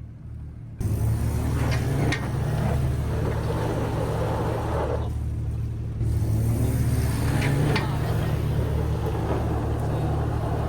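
Jeep engine running steadily, starting abruptly about a second in, with a few sharp clicks or knocks along the way.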